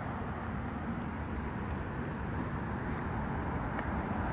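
Steady outdoor city background noise: a low, even hum of distant road traffic.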